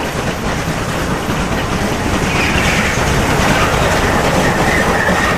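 Steam locomotive hauling a train of passenger coaches past at close range, its wheels running and clacking on the rails, getting louder as it comes nearer.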